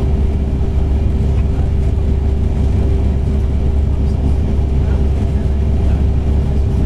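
TER regional train running at speed, heard from inside the carriage: a steady heavy rumble with an even mid-pitched hum over it.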